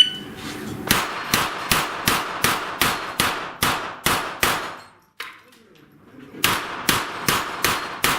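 A string of about ten gunshots fired at steel plate targets, roughly two to three a second, each with a short metallic ringing tail. A pause of about a second and a half follows while the shooter moves to the second position, then a second rapid string of shots begins.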